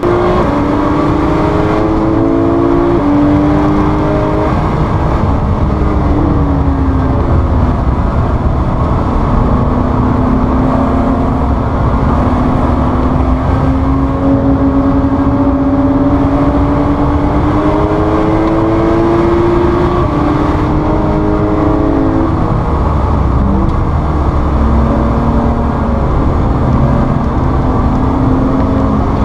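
In-car engine sound of a Lotus Exige V6 Cup and a Porsche 991 GT3 driven hard on a race track. The engine pitch climbs through the gears and drops at each shift, over a steady low rumble of road and wind noise.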